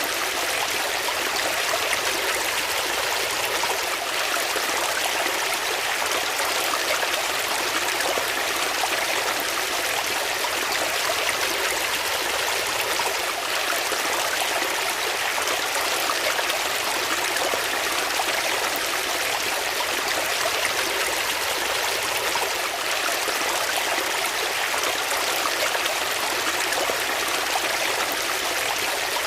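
Water flowing in a steady, even rush, with most of its energy in the middle and high range and no breaks or changes.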